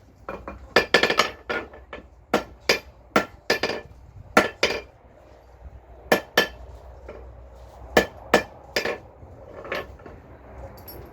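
Blacksmith's hammer striking a nail on an anvil while forging it by hand: a dozen or more ringing metallic blows in irregular pairs and threes, with short pauses between groups.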